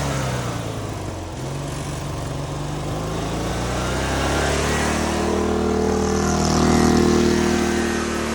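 Small lawnmower engine running under throttle. Its pitch dips about a second in, then climbs from about four seconds to its loudest near seven seconds, and drops again just before the end.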